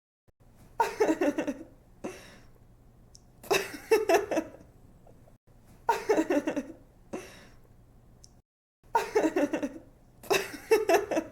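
A young woman laughing: five short bursts of giggling laughter a couple of seconds apart, each a quick run of pulsing ha-ha sounds.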